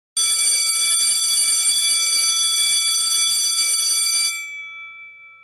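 An alarm bell rings continuously for about four seconds, starting suddenly, then stops, leaving its tone to fade away.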